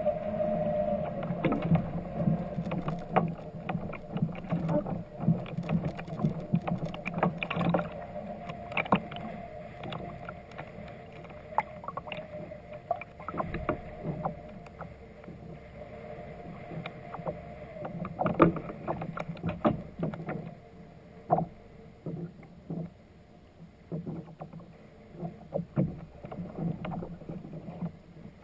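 Irregular knocks and clatter aboard a fishing kayak, over a low steady hum.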